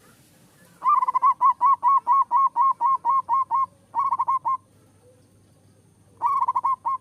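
Zebra dove (perkutut) singing in runs of rapid repeated cooing notes: a long run of about a dozen notes, a short run of four, and another short run near the end.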